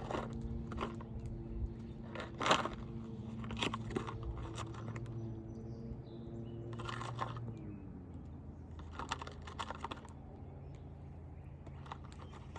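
Crunching, scraping and short knocks of asphalt shingles being worked by hand on a roof, the sharpest knock about two and a half seconds in. Under it a motor hums steadily, then winds down and fades about seven and a half seconds in.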